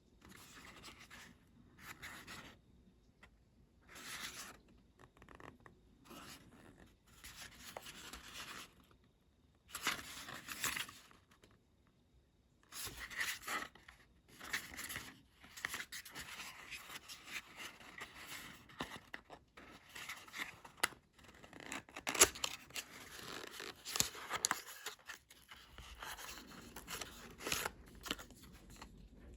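Packaging being handled and opened by hand: irregular bursts of rustling and scraping, growing busier about halfway through, with a few sharp clicks.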